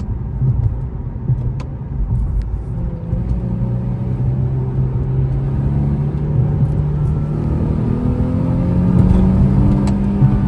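Car engine pulling under acceleration, its note climbing steadily from about three seconds in until near the end over a low rumble of road noise.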